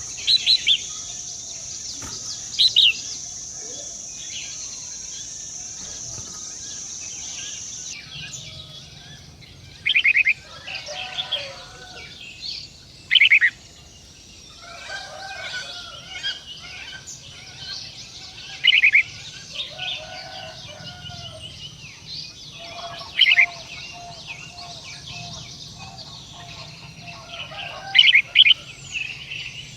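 Birds calling: short, loud, high chirps every few seconds, with softer, lower chattering calls between them. A steady high hiss stops about eight seconds in.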